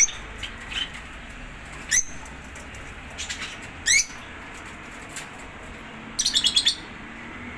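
Lovebirds chirping: single shrill, rising chirps about two and four seconds in, then a quick run of about seven chirps near the end.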